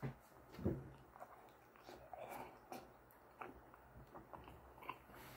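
A person chewing a mouthful of sushi roll, faint and close, with soft irregular wet clicks and smacks of the mouth.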